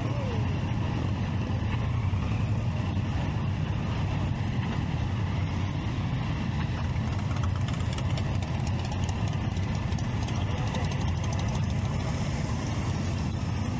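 Triumph Street Triple 675's inline three-cylinder engine running steadily at low revs, with no revving.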